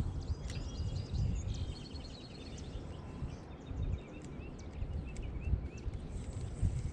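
Birds singing and calling: a quick run of high repeated notes in the first two seconds, then a string of short chirps through the middle. Under them is a steady low rumble.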